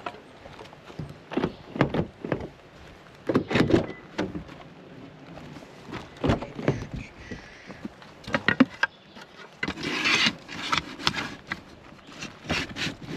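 Irregular knocks, clicks and rustling from things being handled, with a longer rustle about ten seconds in.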